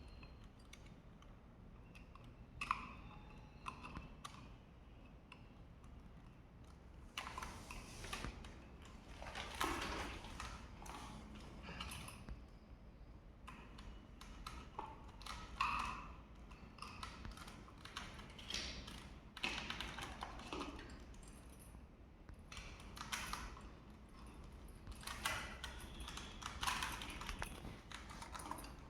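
Faint, irregular clicks and rustles, coming in scattered clusters every second or two, over a low steady hum.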